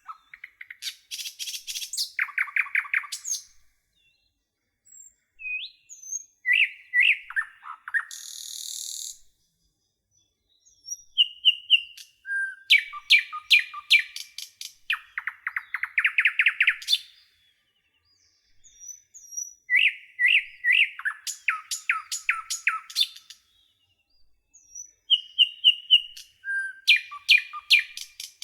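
A songbird singing phrase after phrase of rapid chirps and fast trills, with short silent pauses of a second or two between phrases.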